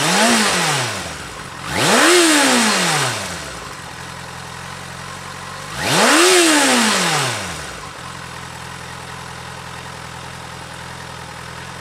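Motorcycle engine idling with three quick throttle blips. Each one rises and falls back to idle, the first smaller and the other two revving higher.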